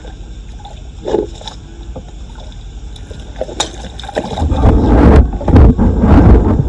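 Floodwater sloshing, with a few sharp knocks. About four seconds in, a loud, rough rushing noise, heaviest in the low end, sets in and continues.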